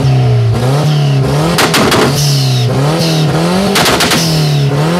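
Car engine revving sound effect: a pitched engine note that climbs in steps, broken about every two seconds by a short burst of harsh noise, in a repeating cycle.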